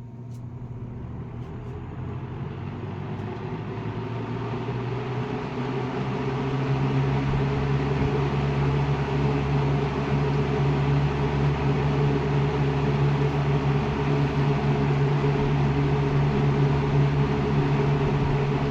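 A Lakewood-made JC Penney 2-speed box fan with a McMillan motor, switched on at low speed. It spins up, growing louder over the first several seconds, then runs steadily with a motor hum under the rush of air from the blades.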